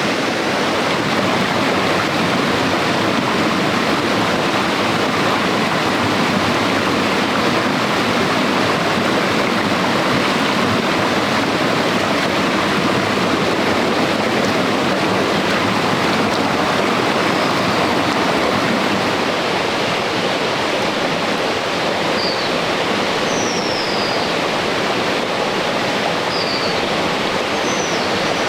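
Stream water rushing steadily. A bird gives a few short, high, falling chirps in the second half.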